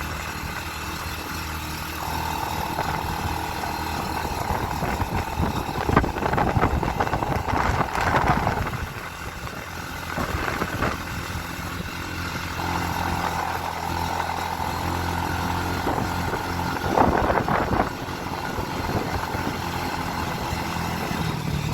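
Motorcycle engine running steadily, with a mid-pitched whine that drops out about nine seconds in and returns a few seconds later. There are louder rushing, rattling spells about a third of the way in and again near the end.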